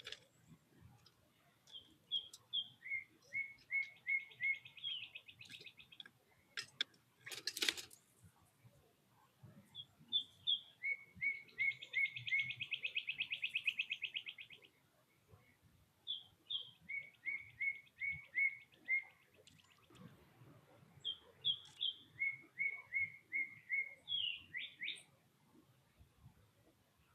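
A songbird singing the same song over and over. Each phrase is a few high notes, then a run of quick falling notes, then a fast trill. A single sharp click cuts in partway through.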